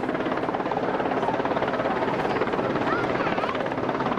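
Royal Air Force Sea King search and rescue helicopter, its rotor beating in a fast, steady chop of blade slap over the running turbines.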